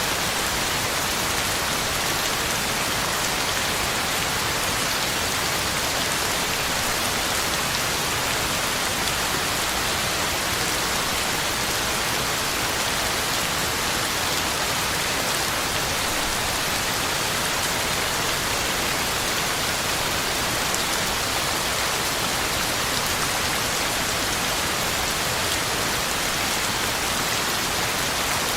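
Heavy rain falling steadily on the ground and leaves, an even hiss without breaks or thunder.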